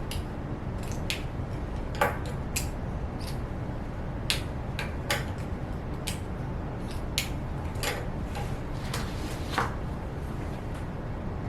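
Scattered light clicks and taps, about one a second and irregular, over a steady low rumble of room background noise.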